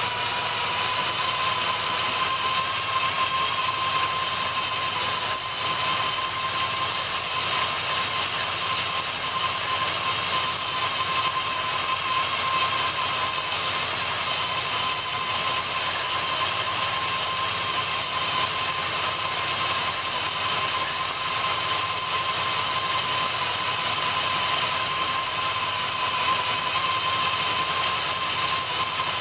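565 cubic-inch big-block Chevy race engine with a solid roller cam running steadily at idle through open headers, with a steady whine running through it.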